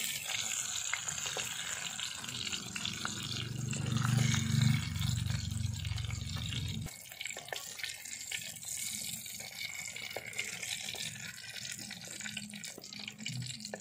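Brinjals frying in hot oil in a clay pot, a steady sizzle, with a few light clicks of a ladle lifting them out. A low rumble swells from about three seconds in and cuts off suddenly around seven seconds in.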